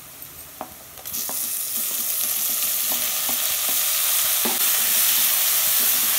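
Chopped tomatoes going into hot oil and fried onions in a clay pot: a loud frying sizzle starts suddenly about a second in and grows steadily louder. Before it, and now and then under it, come a few light knocks.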